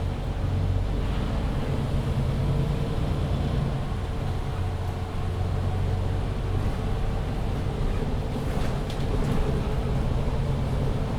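MAN Lion's City 19C EfficientHybrid articulated bus with a diesel engine and Voith automatic gearbox, heard from inside the cabin while under way. The engine note and road noise are steady, with the low engine hum strengthening and easing over the stretch, and a thin steady whine sits above it.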